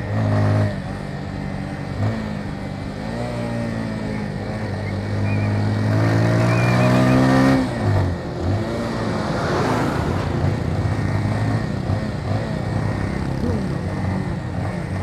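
Motorcycle engine running under way, its pitch climbing steadily through an acceleration for a couple of seconds before dropping away abruptly about eight seconds in, then running on at lower revs.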